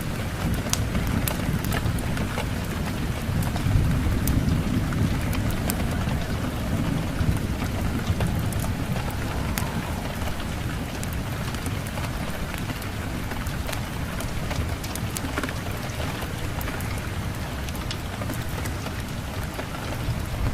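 Steady rain falling, mixed with sharp scattered crackles of a wood fire and a low rumble of thunder that swells a few seconds in.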